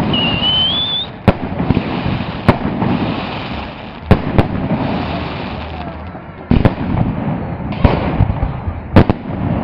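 Fireworks salute going off: a series of sharp bangs at irregular intervals, about eight in all, with two close together near the end, over the steady noise of the crowd. A short rising whistle sounds in the first second.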